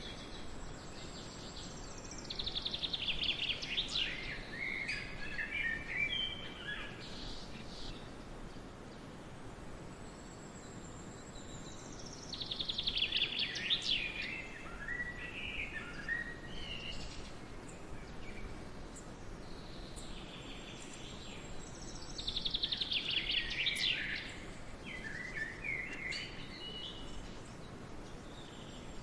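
A songbird singing in a forest, three times about ten seconds apart: each phrase is a rapid trill of notes that falls in pitch and ends in a short flourish. A steady background hiss runs underneath.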